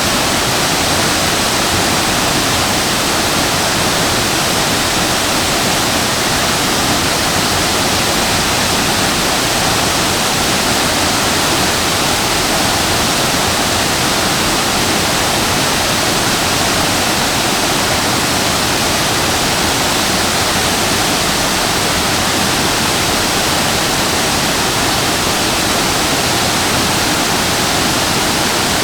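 Shasui Falls, a waterfall, pouring steadily: an even, unbroken rush of falling water that does not change.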